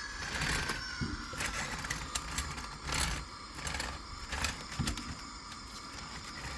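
Model train running on the layout's track: a small electric motor whirring with irregular clicking and rattling of wheels over the rails.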